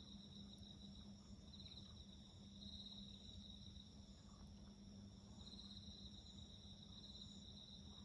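Faint chorus of crickets: a steady high-pitched drone, with pulsed trills coming and going every second or two, over a low steady hum.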